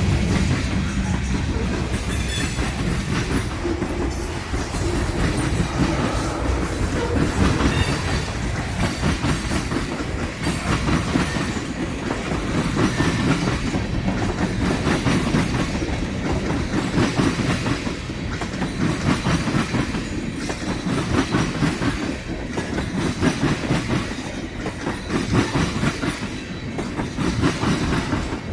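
A train's cars rolling past close by, with a steady rumble and wheels clacking over rail joints.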